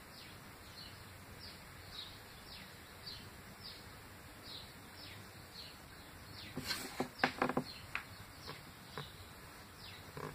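A bird chirping over and over, short falling notes about twice a second. About two-thirds of the way in, a brief cluster of sharp clicks and taps, the loudest sounds, as small objects are handled on a table.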